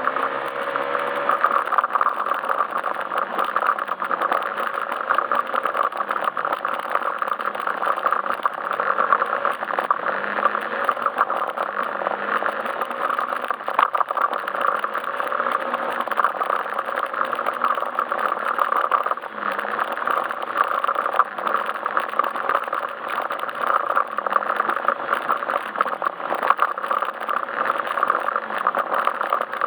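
Yamaha Majesty S SP scooter's single-cylinder engine running steadily under way, its note wavering slightly, with rattling and road noise from the ride.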